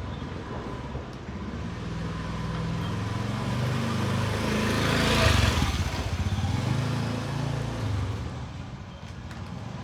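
A motor vehicle's engine passing by, its drone growing louder to a peak about five seconds in, then fading away.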